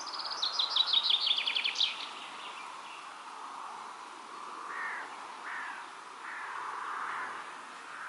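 A songbird sings one quick phrase of rapid, descending high notes ending in a brief upward flourish, about two seconds long. A few short, lower calls follow later, over a steady outdoor background hiss.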